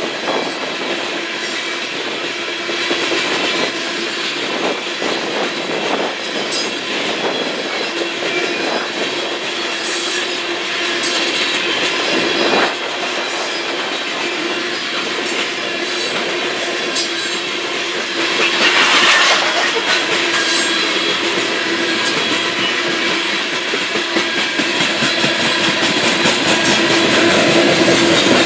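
Union Pacific coal train's loaded cars rolling steadily past, steel wheels clicking over the rail joints, with a thin wheel squeal that swells about two-thirds of the way through.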